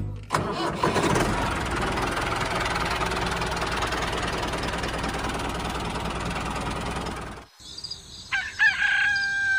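Tractor engine running steadily with a rough rumble, cutting off abruptly about seven and a half seconds in. After a short gap come several loud bird-like chirps that fall in pitch.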